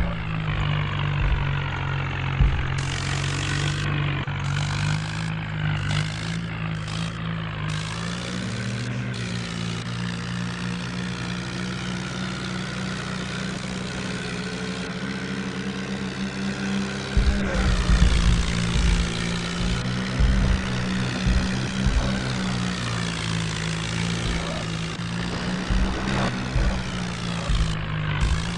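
Tractor engine running steadily under load, its pitch dipping and rising a little, with irregular low thumps joining in over the last third.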